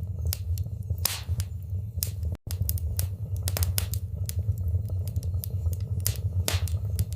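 Wood fire crackling in a fireplace: sharp, irregular pops and snaps over a steady low rumble. The sound cuts out for an instant about two and a half seconds in.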